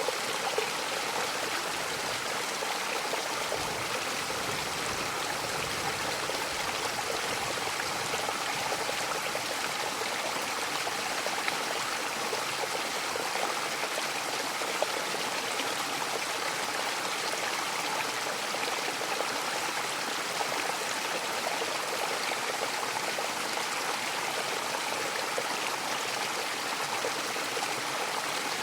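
Mountain waterfall: a steady, even rush of falling water with fine splashing.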